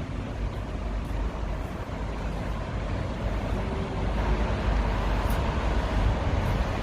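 Road traffic on a city street: a steady rumble of passing vehicles that grows louder about four seconds in.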